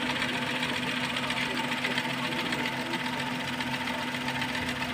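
Car petrol-injected engine idling steadily with a fast, even ticking clatter from its fuel injectors and valvetrain.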